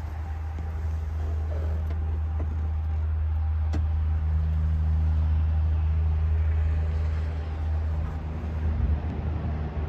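Steady low rumble of a vehicle engine running at idle, with a single sharp click about four seconds in.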